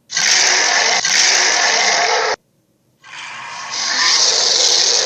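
Tarbosaurus roar sound effect: a roar of about two seconds, then after a short silence a second roar that starts quieter and grows louder about a second later.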